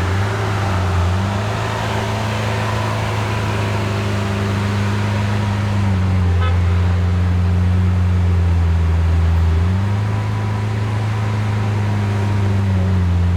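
Lamborghini engine idling: a steady, deep drone whose pitch shifts slightly up and down a few times.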